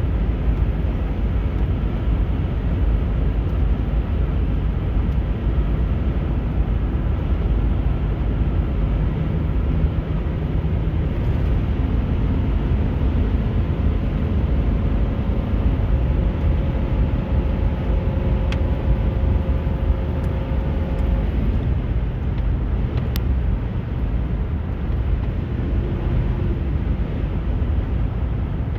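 Vehicle driving along: a steady rumble of road and engine, with a faint hum that shifts in pitch now and then.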